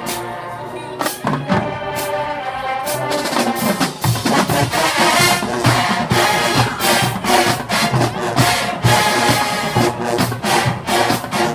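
Marching band playing: brass holding sustained chords, with drums coming in about four seconds in and building a steady beat under the horns.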